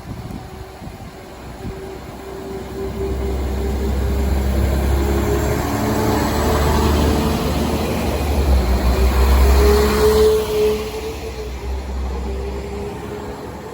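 Class 197 diesel multiple unit passing, its engine and wheel noise building to a peak about ten seconds in, then fading as it moves away.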